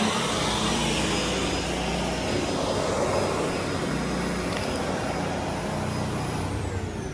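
Vacuum cleaner running steadily over carpet, with a low hum and a thin high whine. Near the end the high whine falls steadily in pitch.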